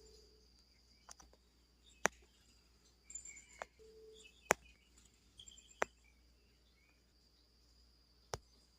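Birds chirping in the early morning over a steady, high insect trill, with four sharp clicks standing out as the loudest sounds.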